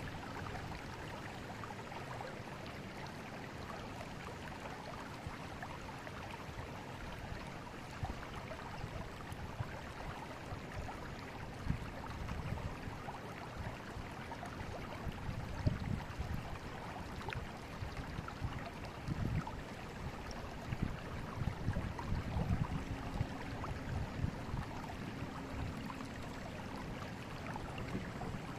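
Forest river flowing with a steady rushing of water. From about halfway through, deeper uneven surges of water come and go over it.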